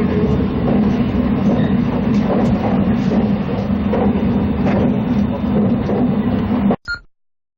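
Passenger train running along the track: a steady rumble with a few faint wheel knocks. It cuts off abruptly near the end.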